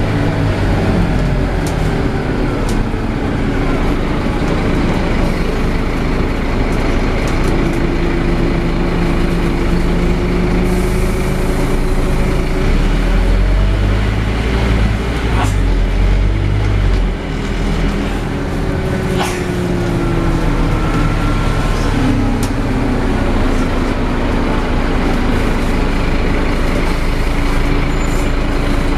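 Scania N270UD double-decker bus's engine and gearbox running under way, its pitch rising and falling as it speeds up and slows. A short burst of air hiss comes about eleven seconds in, and a few sharp clicks follow.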